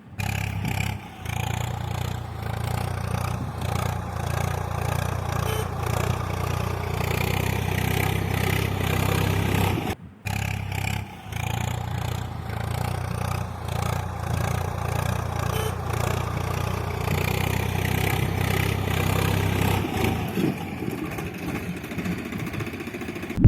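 A small motor running steadily with a low hum. It cuts out briefly about ten seconds in, then starts again, and its low hum weakens near the end.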